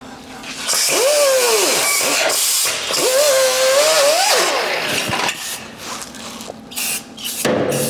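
Power drill run twice, its motor whine rising and falling each time over a hiss. A few clicks and knocks follow near the end.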